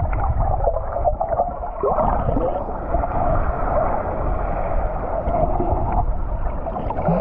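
Sea water sloshing and gurgling around the microphone over a steady low rumble, as when wading in shallow surf.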